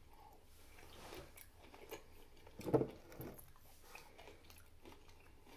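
A person chewing a juicy pickle spear with the mouth closed: faint wet chewing and small crunches, with one short, louder hummed sound about three seconds in.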